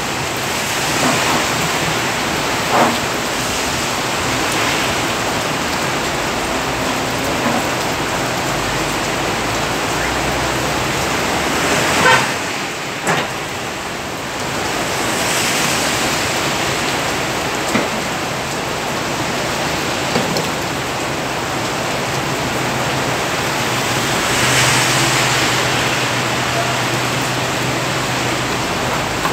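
Heavy rain pouring steadily, with a few short sharp knocks and a low hum near the end.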